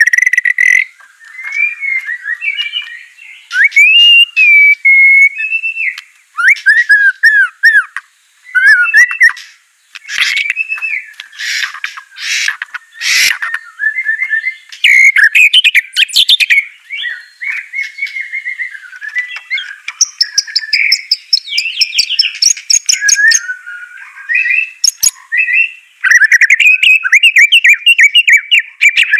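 White-rumped shama (murai batu) singing a long, varied song: loud, clear whistled phrases that glide up and down, broken by rapid chattering rattles near the middle and again near the end.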